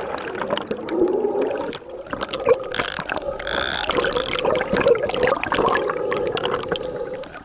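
Water gurgling and sloshing against a boat, with many small splashes and clicks over a steady hum.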